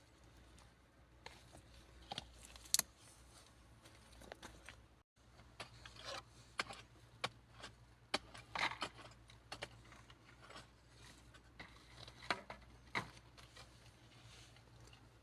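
Scattered light clicks, taps and short scrapes of objects being handled, over a faint low hum, with a brief cut to silence about five seconds in.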